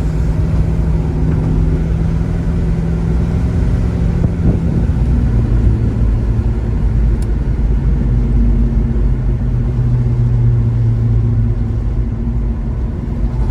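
1970 Chevrolet Chevelle SS 396 V8 running under way with road and wind noise, heard from inside the car with the windows down. The steady engine drone drops in pitch about five seconds in.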